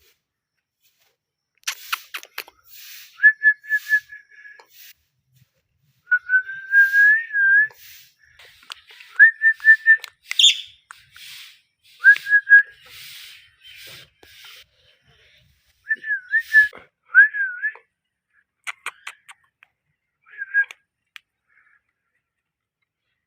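Pet parrot whistling and chattering: short whistled notes, some wavering or gliding, mixed with harsh raspy chirps and clicks, in bursts separated by brief pauses.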